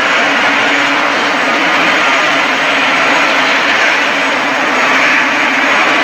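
Helicopter running: a loud, steady rushing noise of turbine and rotor, with a faint low hum underneath.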